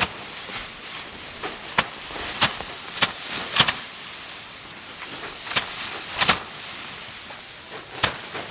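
Rice paddy being harvested by hand: a series of sharp, irregular strikes and crunches, roughly one every half second to two seconds, over a steady rustling hiss of stalks and grain.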